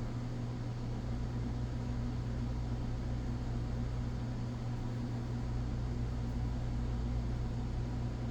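Steady low hum with an even hiss underneath, unchanging throughout: background room noise from a running appliance or fan.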